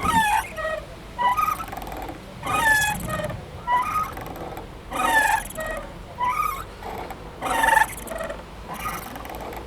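Playground swing squeaking rhythmically as it swings back and forth, its metal hanger or chain joints giving a short squeak about every second, with the louder squeak at every other swing.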